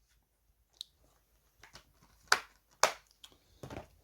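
DVD case and its cardboard slip cover being picked up and handled: a few sharp clicks and taps, the two loudest a little over two seconds in and half a second apart, then a short rustle near the end.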